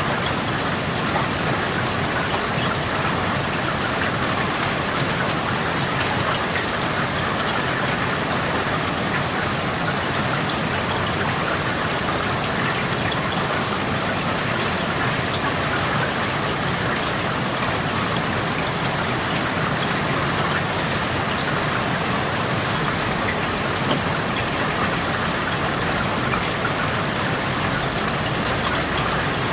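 Steady rain falling, heard through an open window, with scattered individual drops ticking against a constant patter.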